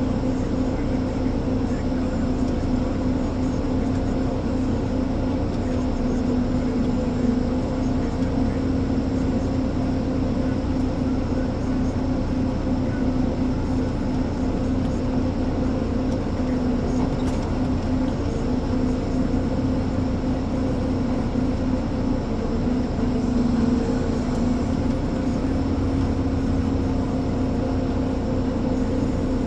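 Ponsse Elephant forwarder's diesel engine running steadily, a continuous even drone with a strong steady hum.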